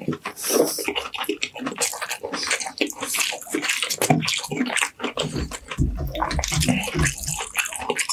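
Close-miked wet chewing and lip-smacking of a person eating roast chicken by hand, a dense run of irregular moist smacks and clicks, with finger-licking.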